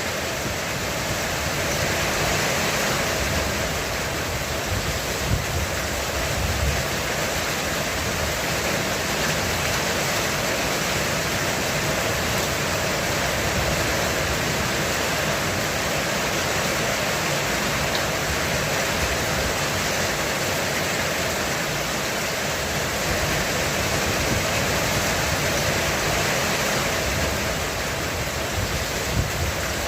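Heavy rain falling steadily on a roof, an even dense hiss that hardly changes in level.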